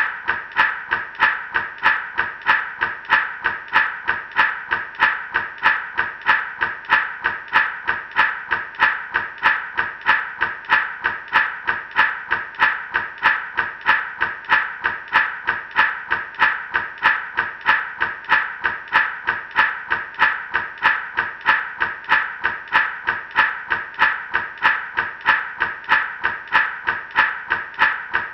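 Gourd rattle shaken in a steady, even rhythm, each shake a crisp burst of rattling seeds.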